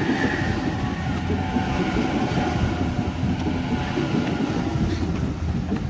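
Sydney Trains A-set (Waratah) electric train pulling into the platform: a steady rumble of wheels on rails with faint whining tones above it.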